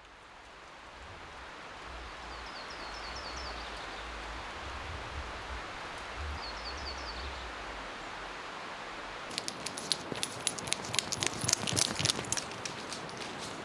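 Steady outdoor background hiss with a small bird giving two short quick trills of descending chirps. From about two-thirds in, irregular crunching footsteps start and become the loudest sound.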